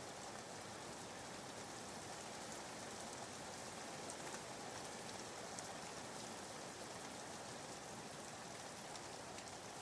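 Soft, steady rain falling, with faint scattered drop patters: a background rain track used as white noise.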